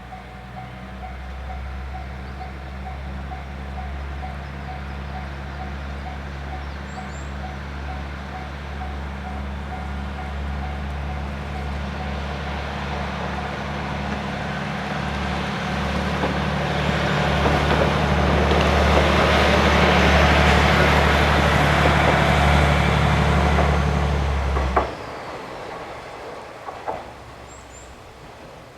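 A train running with a steady low drone and growing rush of wheel and running noise. It gets louder as the train comes close, then cuts off abruptly about 25 seconds in.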